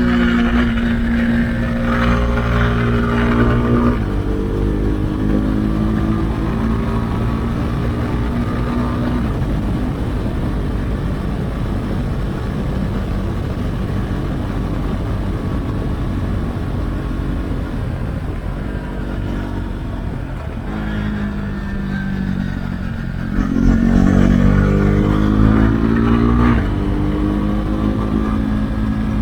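Husqvarna Svartpilen 401's single-cylinder engine through an Akrapovic exhaust with the dB killer removed, under riding load, its pitch stepping with throttle and gear changes. Through the middle it eases off under a steady rush of wind, then pulls hard again from about 21 seconds in.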